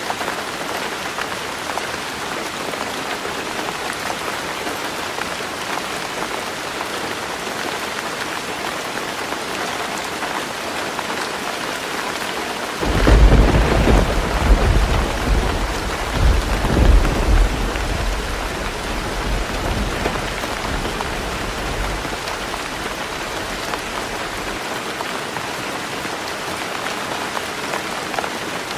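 Heavy rain falling on a roof, a steady hiss. About halfway through a thunderclap breaks in suddenly and rumbles on in several swells for about ten seconds before dying back into the rain.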